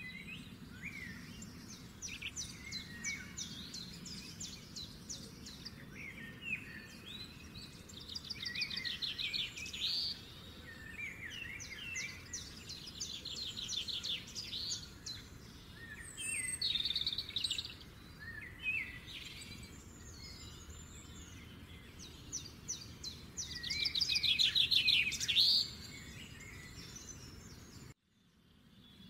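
Songbirds chirping and singing, many rapid trills and short calls overlapping, over a steady low background rumble. The sound cuts out abruptly for a moment near the end.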